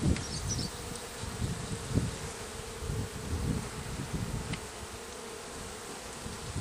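Honeybees buzzing steadily around an open hive as its frames are inspected: a continuous colony hum that swells and dips.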